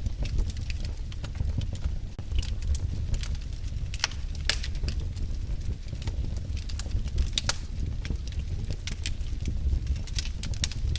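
Wood fire crackling, with irregular sharp pops and snaps over a steady low rumble of the burning logs; the loudest pops come about four and a half and seven and a half seconds in.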